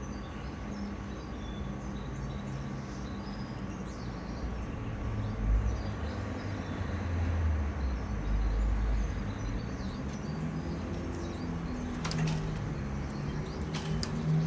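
Low rumbling background noise with faint, scattered short chirps of small caged songbirds, and a couple of sharp clicks near the end.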